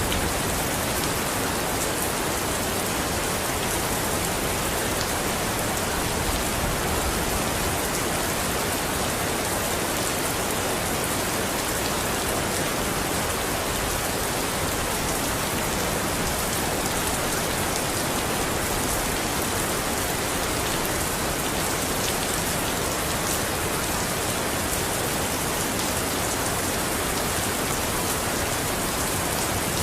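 Steady heavy rain falling on a surface, an even hiss with fine patter of drops.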